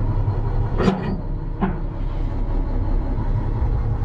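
An old Mack roll-off truck's diesel engine idling steadily with the PTO engaged, with two short metallic knocks about a second in.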